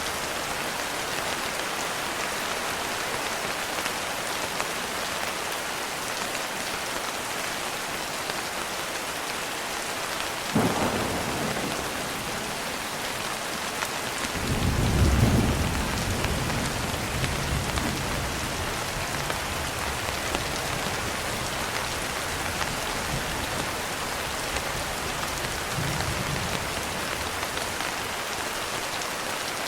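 Steady rain falling, with a sharp crack of thunder about a third of the way in, followed a few seconds later by a long, deep rumble of thunder that swells and slowly fades; a fainter rumble comes near the end.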